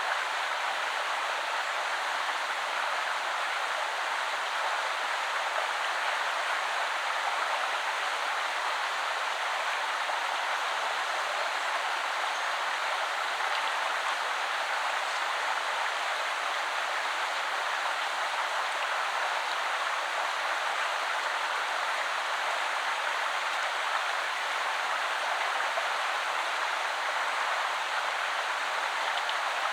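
Shallow woodland river flowing steadily, a constant even rush of water.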